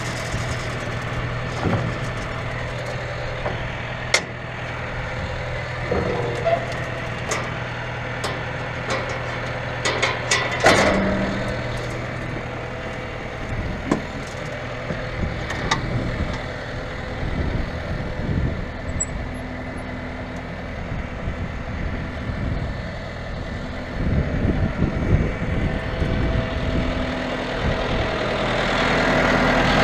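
An engine running steadily with a low hum, under scattered clicks and knocks; a louder clatter comes about ten seconds in, and a run of irregular knocks about twenty-four seconds in.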